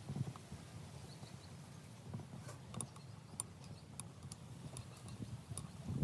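Irregular light knocks with a scatter of sharp clicks.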